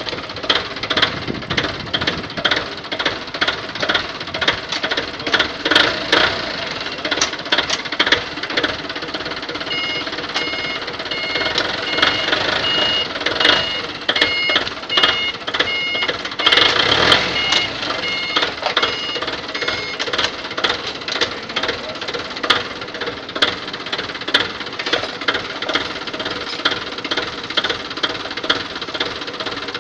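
Hyundai G4KE 2.4-litre four-cylinder petrol engine running with a steady, rhythmic knocking clatter. An electronic beeping pattern sounds for several seconds about a third of the way in.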